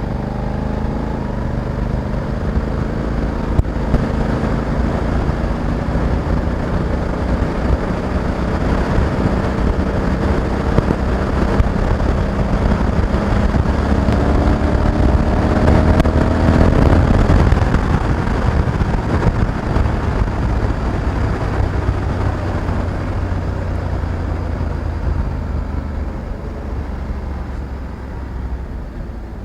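Honda Africa Twin 1100 DCT's parallel-twin engine running under way, rising steadily in pitch and loudness for about seventeen seconds, then dropping away and getting quieter toward the end.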